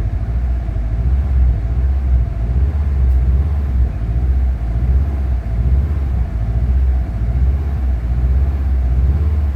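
Subaru STI car engine running with a steady low rumble.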